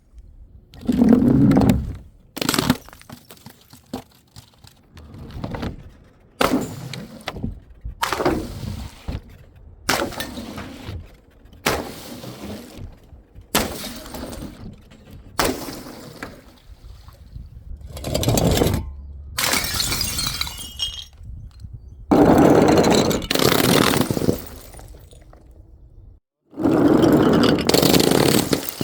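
Glass bottles shattering one after another, a sharp crash every second or two, with several longer, heavier crashes near the start, about two-thirds of the way through and near the end.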